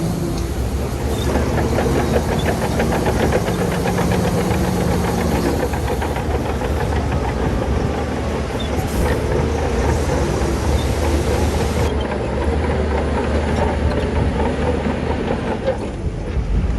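Shantui crawler bulldozer's diesel engine working under load, with a dense, continuous clatter of tracks and stone. A steady engine note is clear for the first five seconds or so, then sinks into the clatter.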